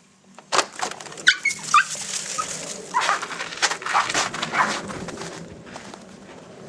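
Dogs in snow: a few short high whimpers about a second in, among repeated scuffling and crunching noises of the dogs moving about.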